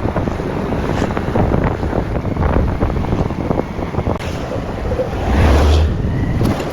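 Wind buffeting the microphone while riding a motorcycle, over a low rumble of engine and road; the rumble swells briefly about five seconds in.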